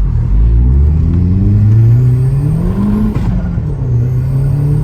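Turbocharged Vauxhall Astra GSi engine accelerating hard under boost, its note rising steadily. The revs fall sharply about three seconds in, then climb again. It pulls cleanly without the misfire on boost that had followed the earlier spark plugs.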